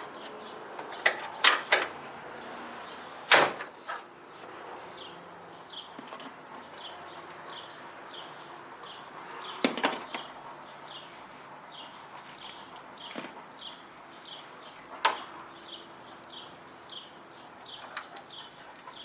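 Hand-tool work on hood strut mounting hardware: a few sharp metal knocks and clinks scattered through, with a regular series of short high chirps in the background.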